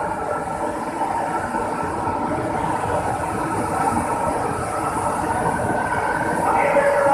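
MRT-3 CKD Tatra four-car light rail train pulling into the station and running past close by: a steady mechanical whine and rumble that grows louder, with a higher squeal joining near the end.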